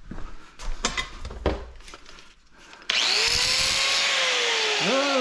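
A few knocks of handling, then about three seconds in a power tool switches on suddenly and runs steadily, taken to a scrap faucet to free its brass parts.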